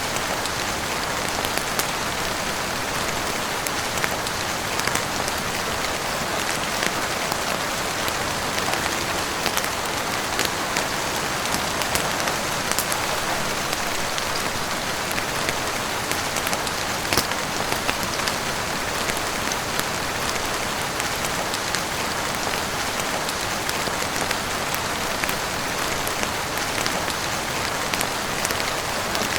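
Heavy rain falling steadily, a dense even hiss with many small sharp ticks scattered through it.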